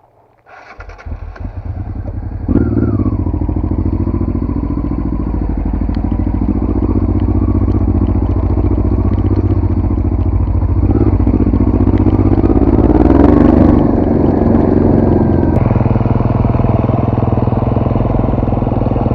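Dirt bike engine coming to life: about two seconds of uneven firing that grows louder, then it settles into a steady run about two and a half seconds in. It rises in revs for a while in the second half.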